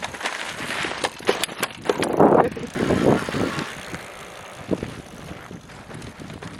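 Wind buffeting the microphone during an electric bike ride, in gusting swells, with scattered clicks and knocks.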